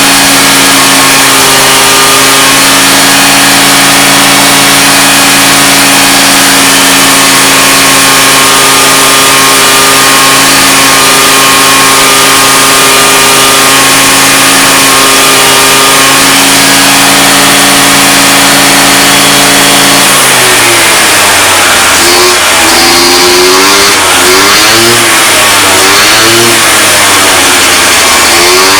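Honda Dio ZX 50cc two-stroke scooter engine, freshly rebuilt with a new cylinder and reed valve, running loud and steady, then from about twenty seconds in revved up and down again and again. The engine is burning a lot of oil and smoking heavily.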